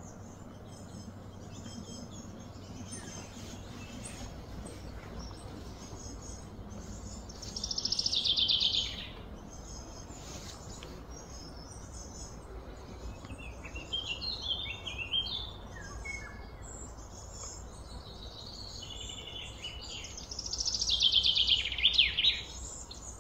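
Small birds chirping and calling over steady background noise. Two louder, fast trilling calls of a second or two each come about 8 seconds in and near the end.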